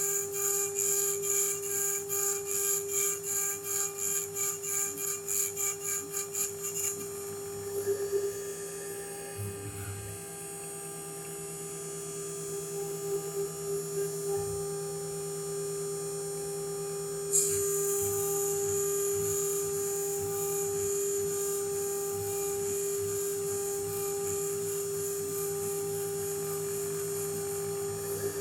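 JCID EM02 desktop CNC machine grinding away an IC on an iPhone logic board. For about the first seven seconds it gives regular rasping passes, about two a second, over a steady motor hum. A high hiss comes in suddenly a little past the middle and holds.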